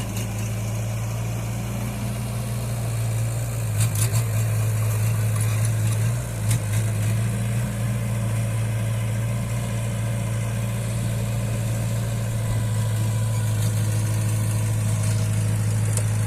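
Heavy diesel machine engine running steadily at an even pitch, with a few short clicks about four seconds in and one more a couple of seconds later.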